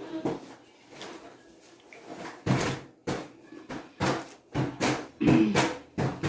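Close-up chewing of crunchy loaded nachos. Starting about two and a half seconds in, there is a series of sharp crunches, roughly two a second.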